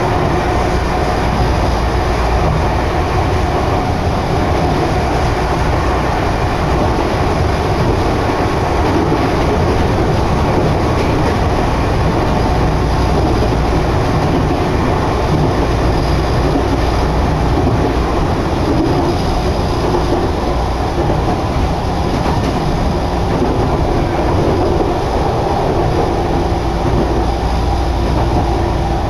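Steady running noise of a Nagano Electric Railway train, heard from inside the passenger car while it travels between stations: an even, low rumble of wheels on track.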